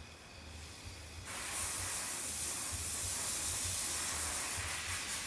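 A steady hiss starts suddenly about a second in and carries on unchanged.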